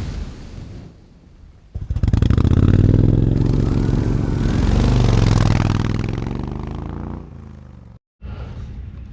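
Motorcycle engine revving up and easing off, starting abruptly about two seconds in and fading toward the end. It drops out briefly near the end, and a lower steady running sound follows.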